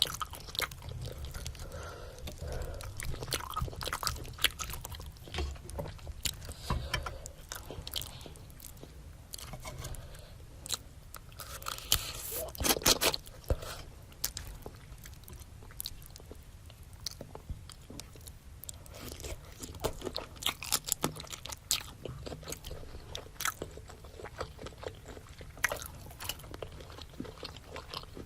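Close-miked eating sounds of a spicy seafood boil with rice cake: biting and chewing, with a steady run of short sharp clicks and mouth noises, loudest about halfway through.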